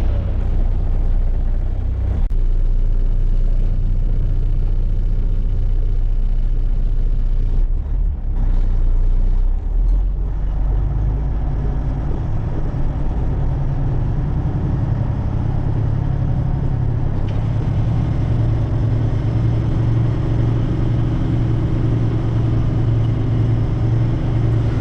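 Diesel dump truck engine running on the road. A few brief dips come about eight to ten seconds in, after which the engine settles into a stronger, steady low note.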